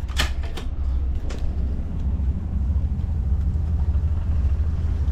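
Boat under way: a steady low rumble, with a few short hissing bursts in the first second and a half.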